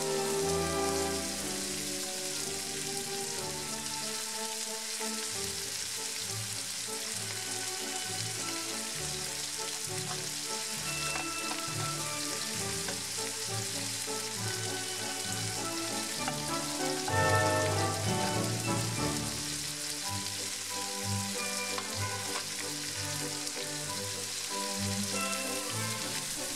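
Cubed chicken breast sizzling steadily as it browns in hot avocado oil in a frying pan, with background music underneath.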